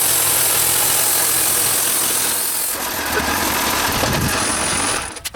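Wood-Mizer portable band sawmill running and sawing a log: engine and band blade under load, with a bright high hiss over the first two or three seconds. The sound stops abruptly about five seconds in.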